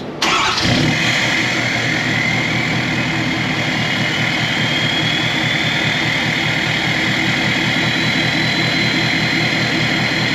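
2022 Ford F-250 Super Duty Tremor's engine starting on remote start, catching with a surge and then settling into a steady idle through an exhaust whose resonator has been replaced with a short straight pipe. A high whine climbs slowly over the first few seconds and then holds steady.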